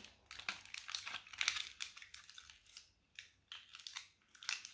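Thick shisha aluminium foil crinkling in faint, irregular rustles as it is pulled taut over a hookah bowl.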